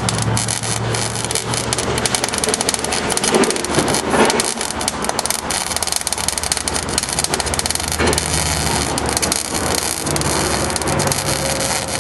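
Welding on pickup cab-corner sheet metal: a steady crackling sizzle of fine pops, with a low hum underneath that shifts in pitch.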